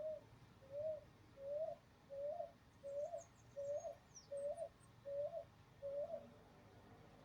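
A dove calling: a series of nine short, slightly rising cooing notes, evenly spaced at a bit more than one a second. Faint high chirps from a small bird come midway.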